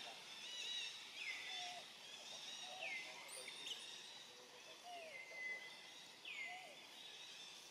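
Faint outdoor ambience with birds calling. One call repeats about every one and a half seconds, each sweeping down in pitch and then levelling off, over softer twittering.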